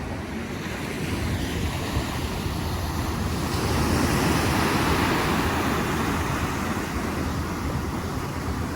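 Ocean surf washing ashore, a rushing wash that swells to a peak about four to five seconds in and then eases off, with some wind on the microphone.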